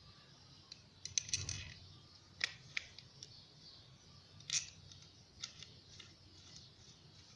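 Sharp metallic clicks from a door mortise lock and its parts being handled and worked: a quick run of clicks about a second in, then single clicks every half second to a second.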